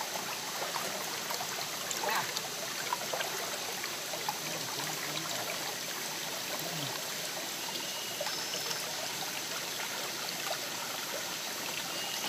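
Shallow forest stream running and trickling steadily.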